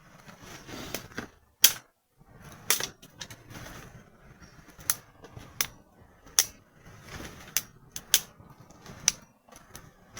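Freshly lit campfire crackling, its toilet-paper base soaked in frying oil: sharp irregular pops and snaps about once a second over a faint hiss, the loudest about two seconds in.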